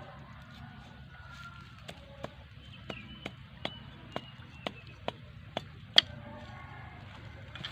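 A series of sharp knocks, about two a second for some four seconds, with the last one the loudest: a tool striking bamboo while the sticks are worked.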